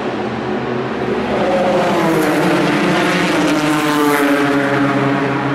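A race car passes at speed, its engine note growing loudest about four seconds in.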